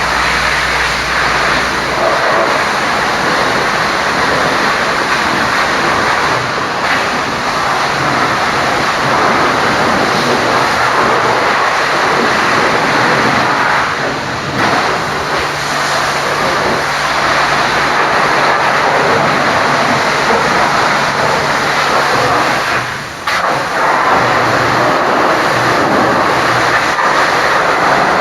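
High-pressure washer jet spraying the truck: a loud, steady hiss of water that breaks off briefly twice, about halfway through and again near the end.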